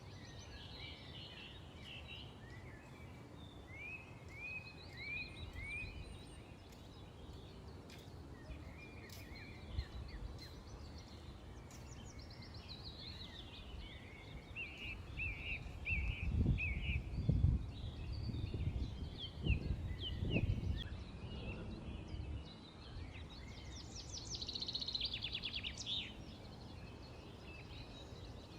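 Small birds chirping in short, repeated phrases, with a rapid trill near the end. A low rumble swells for a few seconds past the middle.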